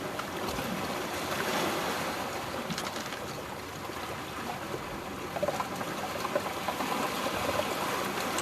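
Steady wash of seawater on the shore, an even hiss, with a few small knocks between about five and seven and a half seconds in.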